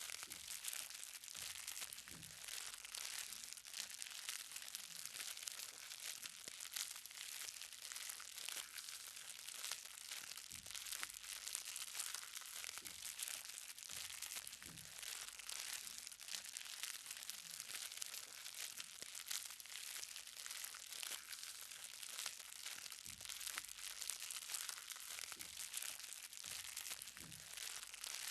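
Light rain: small raindrops pattering steadily on the ground as a dense crackle of fine ticks, with a deeper drip now and then.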